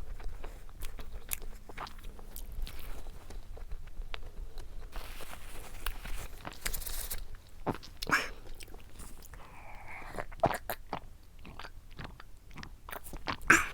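Close-up eating sounds of a cream-filled doughnut: biting and wet chewing with many small mouth clicks, and a brief rustle about five to seven seconds in.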